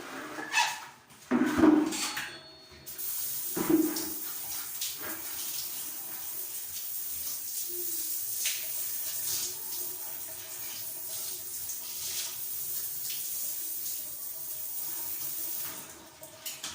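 Water running steadily from a tap in a bathroom, an even hiss that starts about three seconds in and stops near the end. It is preceded by a few knocks.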